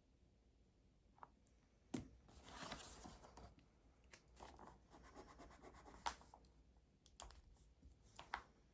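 Faint desk sounds of studying: a sharp click about two seconds in, then a second or so of scratching like a pen writing on paper, followed by scattered light taps and clicks.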